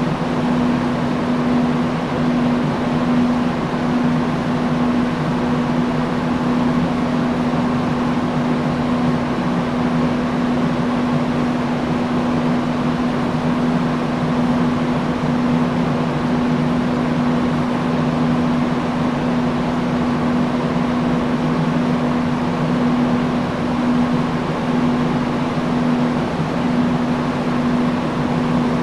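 Industrial fan running steadily: a constant rush of air with a steady low hum from the motor.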